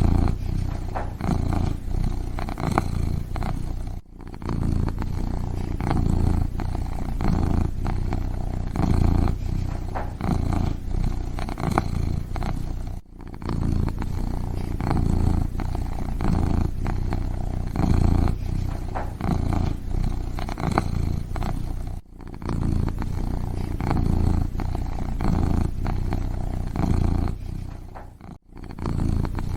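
Kitten purring close up, a continuous low, fluttering rumble broken by a brief pause roughly every nine seconds.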